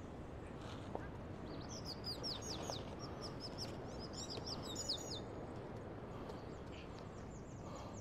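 Small birds chirping: a quick run of short, high, falling chirps lasting about four seconds, with fainter high chirps before and after, over a low, even outdoor noise.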